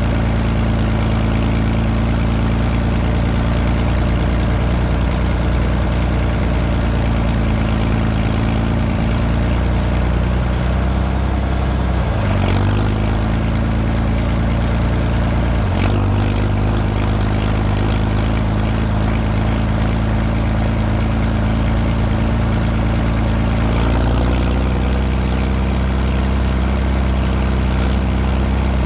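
Straight-piped John Deere 4630 tractor's turbocharged six-cylinder diesel running steadily, with a thin high whine over the exhaust note. The engine note shifts about twelve seconds in and again at sixteen, then settles back near twenty-four seconds.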